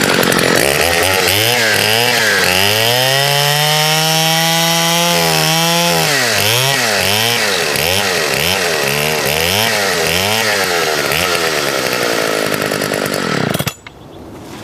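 Partner S55 two-stroke chainsaw cutting through a log at full throttle. The engine pitch climbs and holds, then swings up and down repeatedly as the chain bites, and drops away suddenly near the end.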